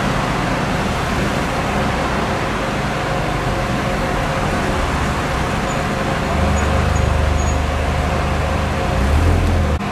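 A motor vehicle engine running steadily over street noise. A deeper low rumble grows louder about six seconds in, then cuts off abruptly near the end.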